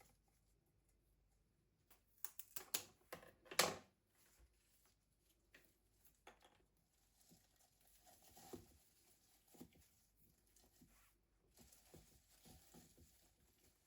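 Quiet room with soft clicks, taps and light rustling of objects being handled, a quick cluster of clicks a few seconds in.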